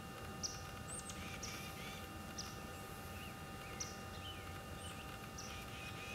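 Birds chirping: scattered short, high notes, a few with quick downward sweeps, over a faint steady background hum.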